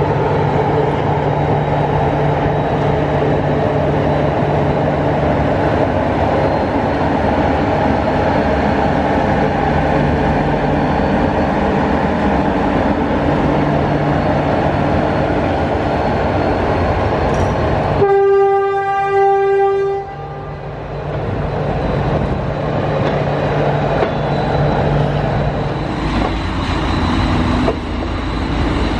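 A locomotive at a station running steadily with a low engine tone. About eighteen seconds in it gives one horn blast of about two seconds.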